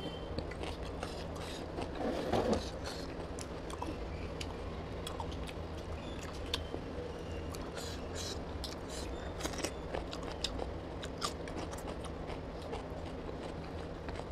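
Close-up eating sounds: a mouthful of mutton curry and rice being chewed, with many small mouth clicks and smacks, and fingers working the rice on the plate. A steady low hum sits underneath.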